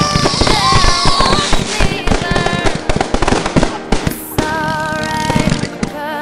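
Fireworks going off in quick succession, a dense run of bangs and crackles, with music playing over them.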